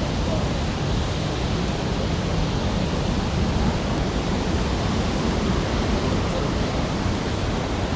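Steady loud rushing noise, heavy in the low end, with no breaks.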